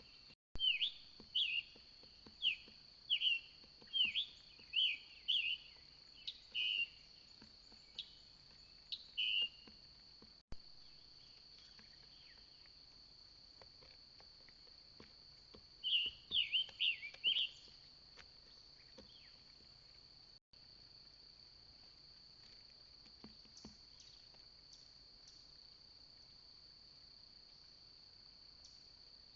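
A songbird calls with short, sharp, downward-slurred notes, about a dozen in the first ten seconds and then a quick burst of four or five just past the middle. Behind them, insects keep up a steady high-pitched drone.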